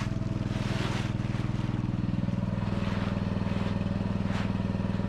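Small single-cylinder-style engine of a Murray riding mower running steadily at an even speed, its exhaust pulses close and regular.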